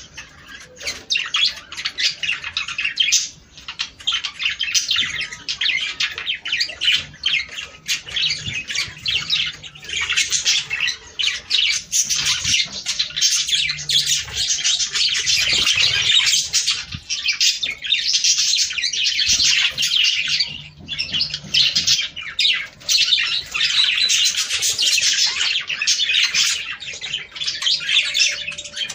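Budgerigars chattering and warbling, a dense, continuous stream of fast chirps and squawks.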